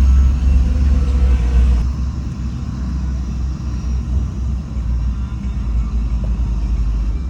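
Heavy diesel earthmoving machinery running with a steady low rumble; the higher sounds drop away abruptly about two seconds in.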